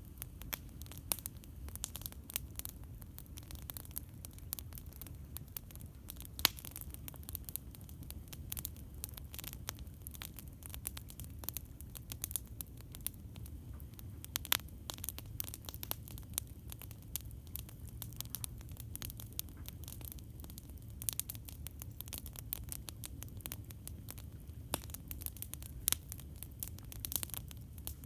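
Campfire crackling: irregular sharp pops and snaps, some louder than others, over a steady low rumble.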